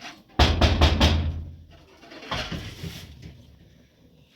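Heavy pounding on a door: a quick run of loud, booming knocks about half a second in, then fainter thumps around the middle.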